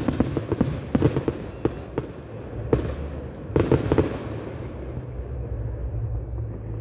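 Fireworks display going off, loud: rapid sharp bangs in quick clusters, one right at the start and another about three and a half seconds in, then fading to a low rumble for the last few seconds.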